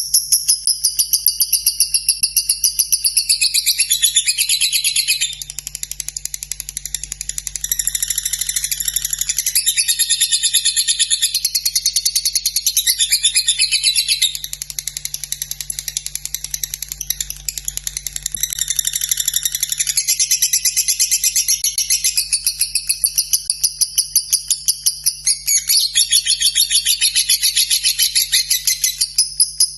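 Lovebird singing a long unbroken run of high-pitched chattering trills with a rapid pulsing rhythm, the drawn-out 'ngekek' song.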